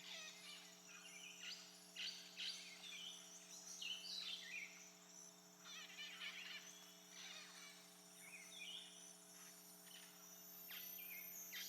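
Faint birdsong: many short chirps, whistles and brief trills from several birds, scattered throughout, over a faint steady hum.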